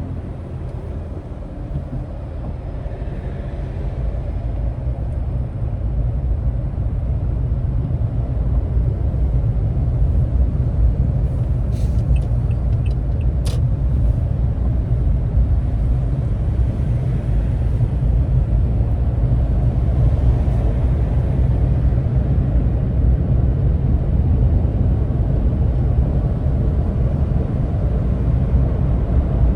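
Motor vehicle engine and road rumble while driving, a deep steady drone that builds over the first ten seconds or so, as if gathering speed, then holds steady. A few brief clicks come about twelve to thirteen seconds in.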